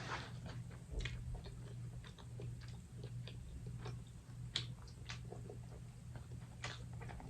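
Eating a seafood boil close to the microphone: irregular small clicks and crackles of crab shell and chewing, with a sharper crack about halfway through, over a steady low hum.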